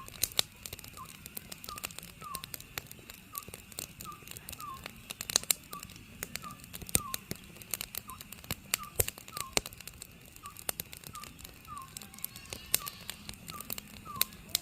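Wood fire crackling and popping irregularly, with an Oriental scops owl calling behind it in a run of short, repeated hoots.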